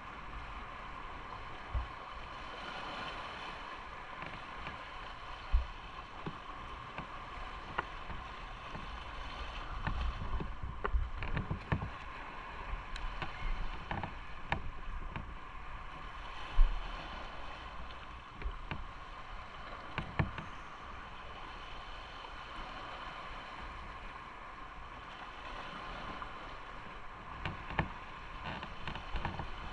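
Motorcycle running steadily on the road, engine and wind noise, with occasional short thumps; the loudest thump comes a little past halfway.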